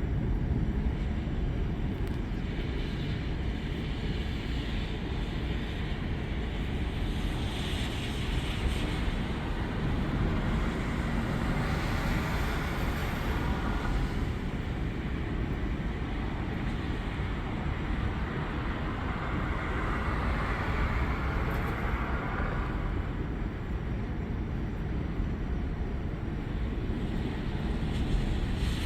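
Thunderstorm outdoors: a steady low rush of wind and rain, with a hiss that swells and fades several times, each swell lasting a few seconds.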